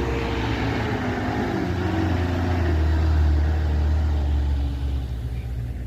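A heavy truck's engine labouring on a steep climb. Its pitch sinks a little at first, and it swells louder in the middle before easing off near the end.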